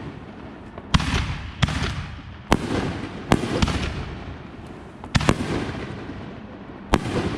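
Consumer aerial fireworks going off: about seven sharp bangs roughly a second apart, two of them nearly together a little past the middle, each trailing off into crackle and rumble.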